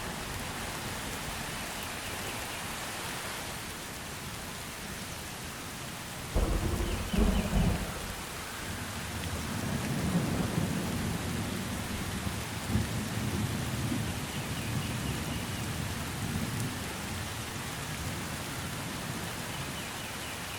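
Thunderstorm: steady rain falling, with a sudden clap of thunder about six seconds in, followed by a long, low rumble of rolling thunder that fades out.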